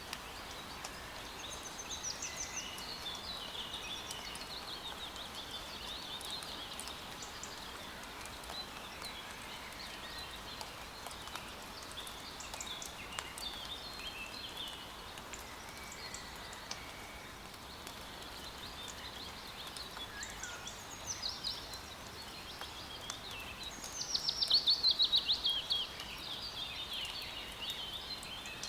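Steady hiss of rain in a forest with several birds chirping and calling over it. Near the end one bird gives a loud, rapid trill of repeated chirps lasting about two seconds.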